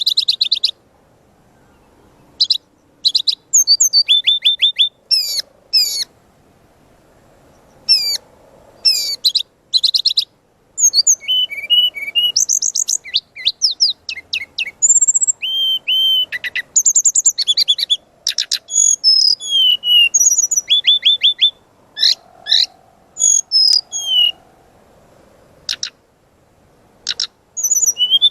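Brown-chested jungle flycatcher (sikatan rimba dada coklat) singing a loud, varied song of quick high whistles, rising and falling slurs and short rapid trills, in bursts of a second or two with brief pauses between.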